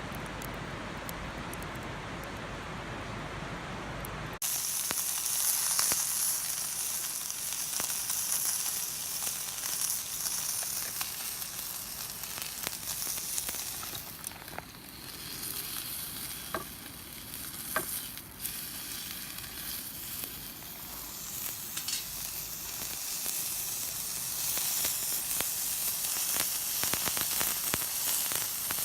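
Food frying and sizzling: a steady high hiss with scattered pops. For the first few seconds a steady, lower rushing noise runs instead, and it cuts off abruptly.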